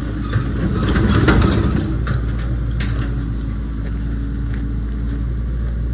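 Excavator engine running steadily, with scattered short knocks and clanks.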